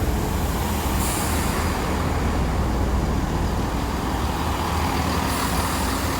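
Class 165 Turbo diesel multiple unit running into the platform: a steady low engine rumble with wheel and rail noise. A faint hum comes in near the end.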